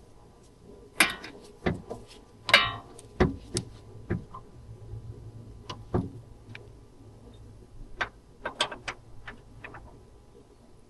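Irregular metal clinks and knocks of hand tools and parts being handled, about a dozen scattered hits; one about two and a half seconds in rings briefly.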